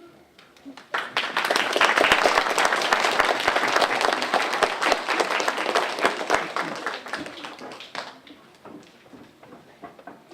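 Audience applauding: many hands clapping, starting about a second in, then dying away after about seven seconds.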